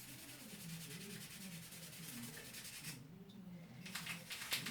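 Toothbrush scrubbing a stained plastic Lego piece with toothpaste: a faint, fast scratchy brushing that pauses briefly about three seconds in, followed by a few light clicks near the end.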